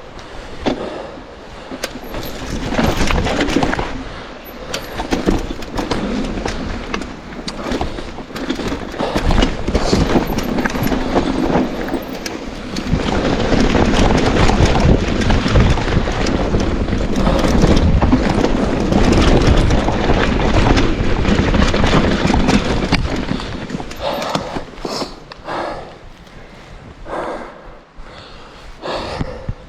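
Mountain bike riding down a rough downhill trail: tyres rumbling over dirt and rocks, with the bike rattling and knocking over the bumps and wind on the microphone. It is loudest through the middle stretch and breaks into separate bumps near the end.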